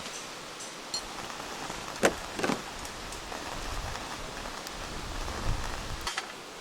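Wood campfire crackling with a steady hiss and scattered small pops, and two sharper knocks about two seconds in.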